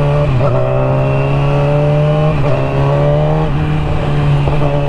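Motorcycle engine accelerating through the gears, heard from the rider's helmet. The engine note climbs steadily and drops sharply at each upshift, about three times.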